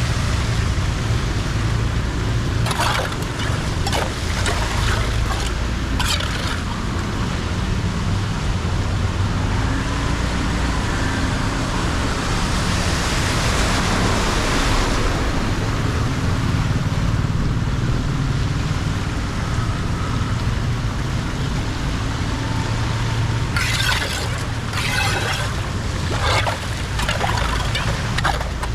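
Water flowing and sloshing with a steady low rumble, swelling for a couple of seconds about halfway through. Short sharp sounds cut through it a few times, about three to six seconds in and again near the end.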